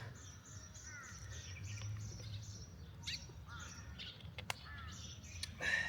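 Wild birds chirping and calling in short, repeated phrases over a steady low outdoor rumble, with a single sharp click about four and a half seconds in.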